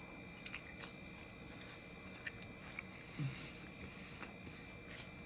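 A person quietly chewing a bite of a snack pie, with a few faint soft mouth clicks and a soft low bump about three seconds in.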